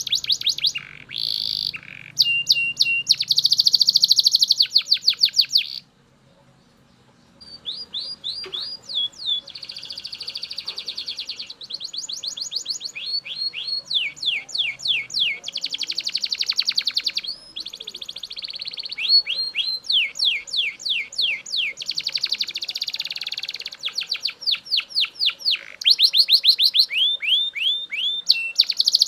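Male Belgian canary singing: long tours of rapidly repeated high notes and rolling trills, with a short break about six seconds in before the song resumes.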